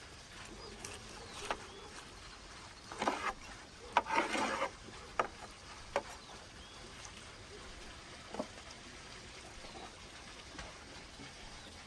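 Knife working through crisp roast lamb on a wooden board: a few sharp knocks, with a short scraping crunch about four seconds in, over a faint outdoor background.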